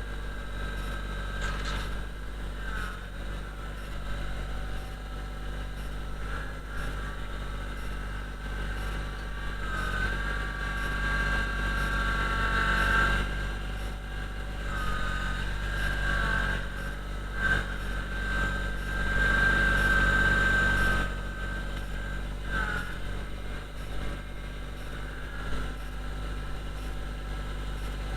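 Kubota BX25D compact tractor's three-cylinder diesel running under work, with a high whine that shifts in pitch and swells for a few seconds about halfway through and again about two-thirds through.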